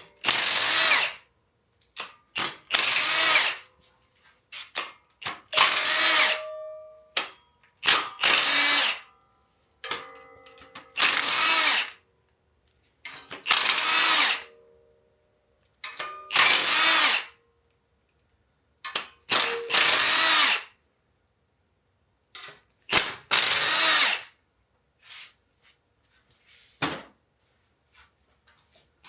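Cordless power wrench with a 15 mm socket running in about nine short runs of a second or so each, backing the windage tray nuts off a GM 8.1-litre engine's block, with small metal clicks and clinks of nuts and socket between runs.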